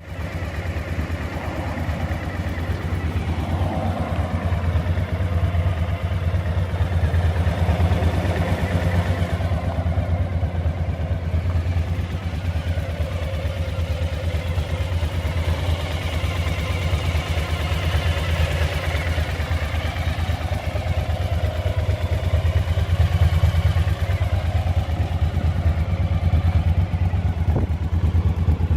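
Suzuki V-Strom motorcycle engine idling steadily.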